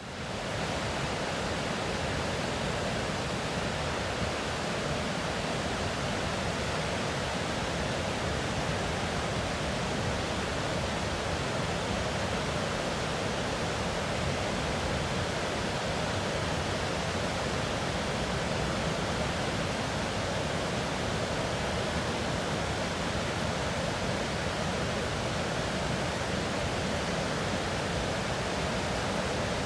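Upper falls of Cataract Falls: water pouring over the falls with a steady, unbroken rush that comes up quickly at the start and then holds even.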